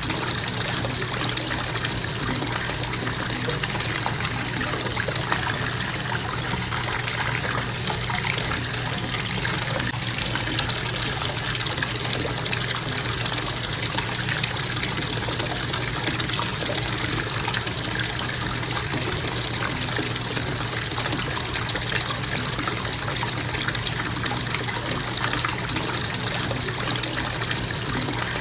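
Bathtub faucet running in a constant steady stream of water, filling the tub.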